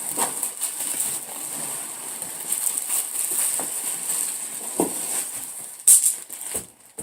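Rustling and crinkling of packaging being handled and pulled open, with scattered small knocks and clicks and one sharp snap about six seconds in.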